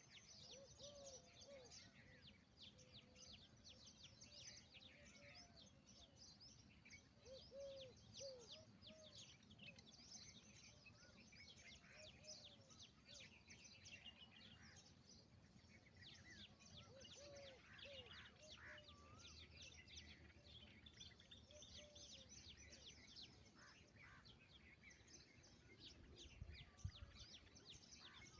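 Faint outdoor bird chorus: many small birds chirping in quick, high notes throughout, with groups of short, low, soft calls every few seconds. A brief low thump comes near the end.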